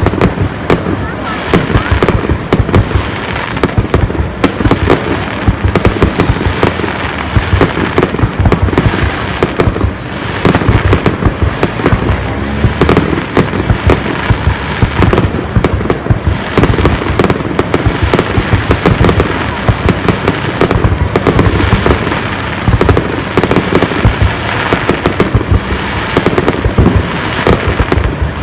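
Fireworks display: a continuous barrage of bangs and crackles, many shells bursting in rapid succession.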